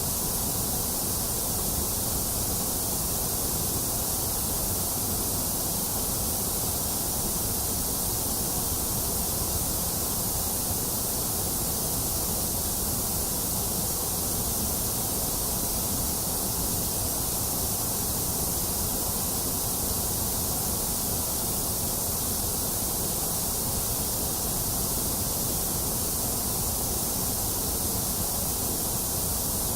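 Steady white noise: an even, unbroken hiss, strongest in the high end, that never changes.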